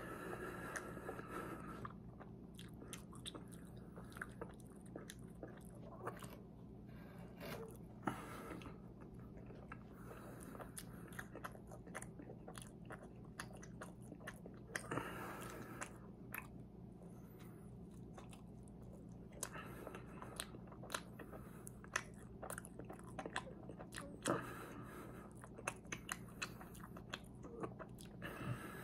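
A person chewing and biting mouthfuls of chocolate-glazed éclair, with irregular sharp mouth clicks and a steady low hum underneath.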